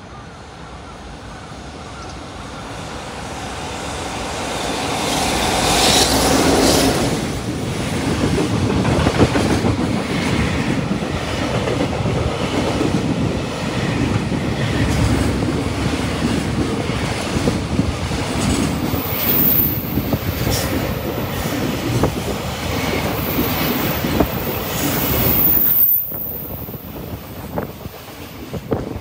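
A long freight train passing close by: its noise builds over the first six seconds or so, stays loud for about twenty seconds as the wagons roll past, and drops off sharply near the end.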